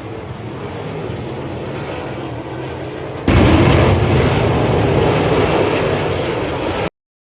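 A field of 410 sprint cars' V8 engines running at racing speed, a dense, loud engine noise that jumps sharply louder about three seconds in as the cars come close. It cuts off abruptly near the end.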